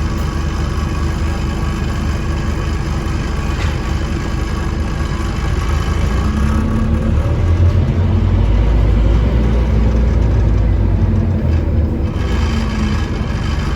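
Scania OmniCity double-decker bus's diesel engine running. Its low rumble grows louder about halfway through, dips, then a rising whine comes in near the end as the bus picks up speed.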